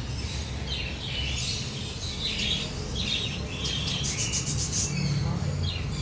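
Small cage birds chirping in short, scattered calls, with a quick run of rapid chirps about four seconds in, over a steady low hum.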